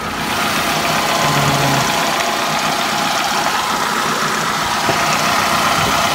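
2008 Mitsubishi Lancer GTS's 2.4-litre four-cylinder engine idling steadily, heard close up from the engine bay. It gets louder just after the start.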